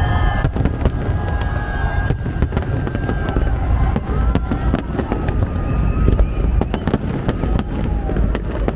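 Fireworks display going off: a rapid, irregular string of bangs and crackles over a continuous low rumble.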